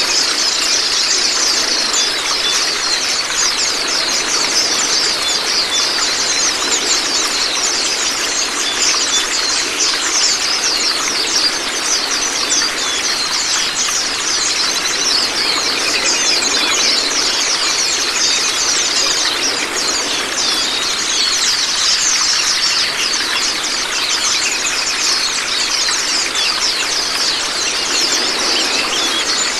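Running, splashing water with the rapid, high twittering of white-eyes (pleci) over it, unbroken throughout.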